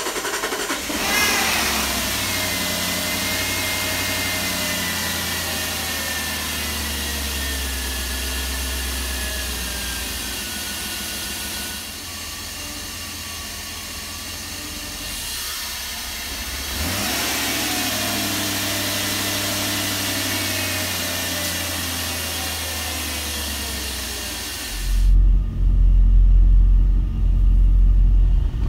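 2001 Jeep Grand Cherokee's 4.7-litre V8 running just after starting: the revs rise about a second in and slowly sink, drop lower near twelve seconds, rise again at about seventeen seconds and sink slowly. Near the end a heavy low rumble takes over.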